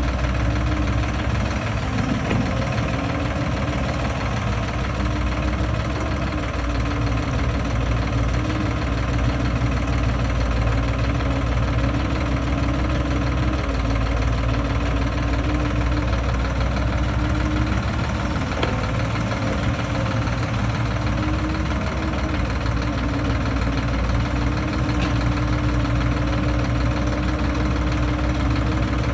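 Sonalika tractor's diesel engine running steadily at an even speed.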